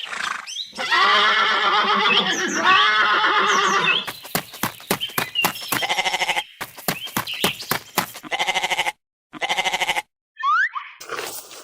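Recorded farm animal calls: a long wavering call of about three seconds, then a run of rapid clicking with shorter calls over it, two short pulsing bursts, and a brief rising whistle-like glide near the end.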